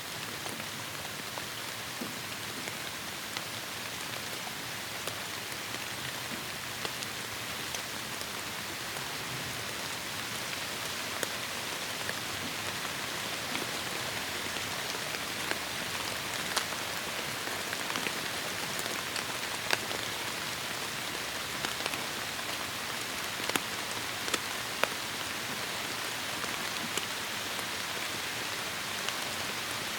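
Steady heavy rain falling in a forest, a dense hiss with sharp, scattered drop hits on nearby surfaces.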